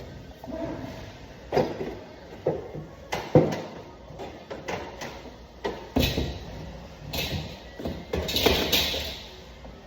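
Sheet-metal HVAC plenum being handled and fitted: a series of irregular knocks and clanks, with a longer scraping rattle near the end.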